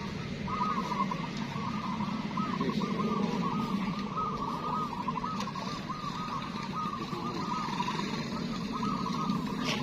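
Many zebra doves (perkutut) cooing at once, their short, repeated, warbling phrases overlapping without a break, over a steady low background hum.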